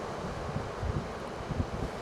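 Wind buffeting the microphone in irregular low thumps over a steady hiss of breaking surf.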